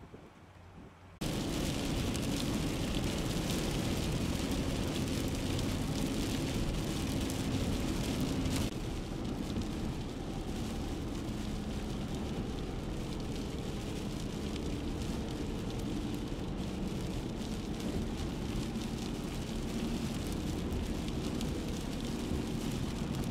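Rain mixed with sleet pelting a moving car, heard from inside the cabin, with the steady hiss and rumble of tyres on a wet road; it starts abruptly about a second in and stays steady.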